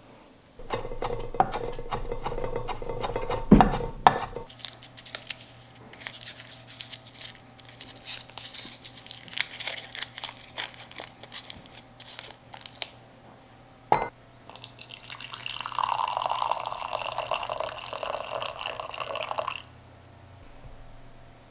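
Kitchen work with water and dishes: a stretch of liquid noise at the start, a spell of fine scattered clicks, one sharp knock about fourteen seconds in, then a few seconds of water running that stops abruptly.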